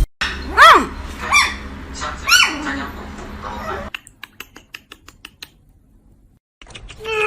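Three short, high-pitched yelps from a small dog, each rising and then falling in pitch, followed by a run of small clicks and a brief quiet.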